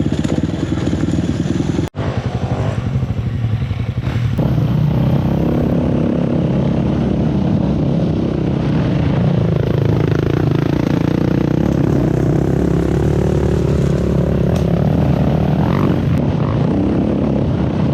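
Four-stroke enduro dirt bike engine running under way, its pitch dipping and rising through the middle. The sound cuts out abruptly for an instant about two seconds in.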